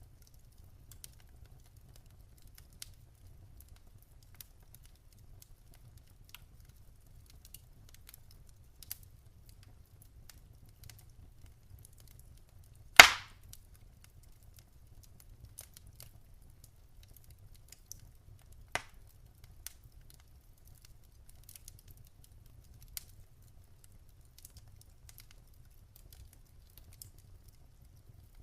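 Wood fire crackling in a fireplace: scattered small ticks and snaps over a low steady rumble, with one loud sharp pop about halfway through and a smaller one a few seconds later.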